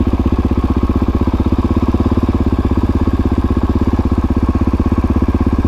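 Dirt bike engine running at low, steady revs with even firing pulses, the bike pulling slowly in first gear.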